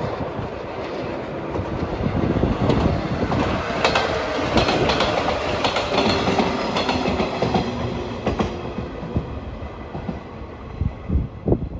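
JR 115 series electric train passing close by, its wheels clacking over the rail joints. The sound builds, is loudest as the cars go by, and fades as the train pulls away.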